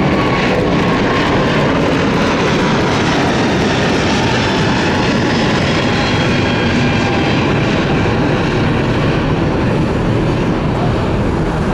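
Airbus A350-1000 jetliner's Rolls-Royce Trent XWB engines during departure: a loud, steady rush of jet noise with faint high whining tones from the engines.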